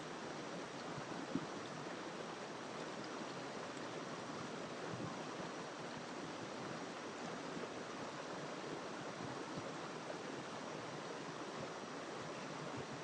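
River water rushing steadily over rocks, an even flowing noise, with one brief click about a second and a half in.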